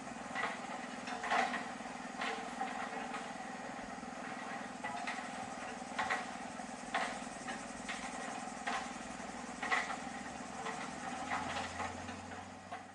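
A machine running with a steady hum, with irregular short knocks and clacks of work about once a second; it fades near the end.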